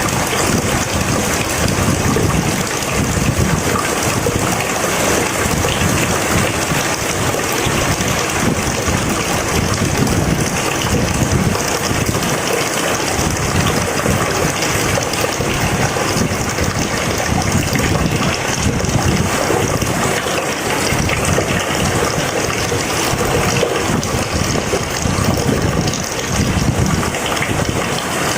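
Rain pouring steadily, a dense even hiss with no breaks.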